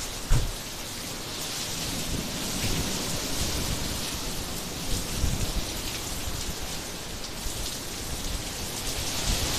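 Typhoon wind and rain: a steady rushing noise that swells and eases in gusts, with low rumbling buffets and a sharp thump just after the start.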